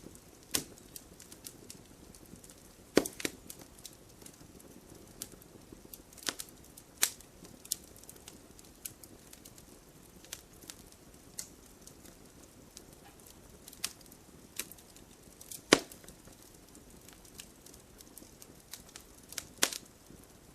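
Firewood burning in a fireplace, crackling with irregular sharp pops and snaps over a faint steady hiss. The loudest pop comes about three quarters of the way through.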